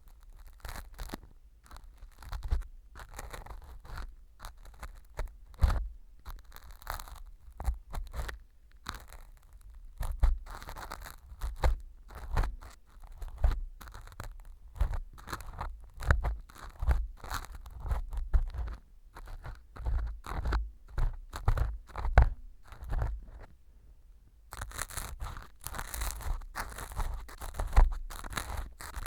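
Earpick scraping and crunching pieces of dried fu (baked wheat gluten) glued like earwax inside a mock ear canal, a dense run of irregular crackles and scrapes. The fu has soaked up the glue and sits stuck hard, giving a gritty scratching. A short lull comes near the end, then the crackling picks up again.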